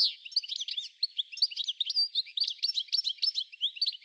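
Small songbirds chirping, a dense chorus of quick, high, overlapping chirps.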